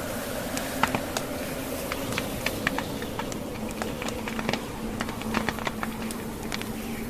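Wood logs burning in a fireplace, crackling with many irregular sharp pops and snaps over a steady hiss.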